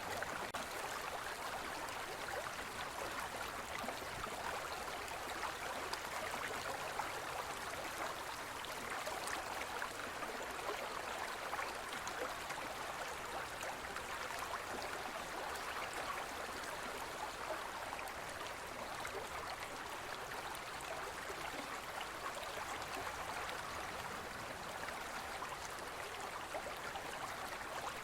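A gentle forest stream running over stones: a steady, even babble and gurgle of flowing water.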